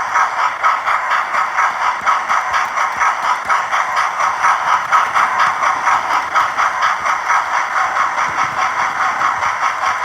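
Model railway train running along the track, picked up close by a phone riding on a flatbed wagon: a steady mechanical running noise of motor and wheels with a fast, even flutter.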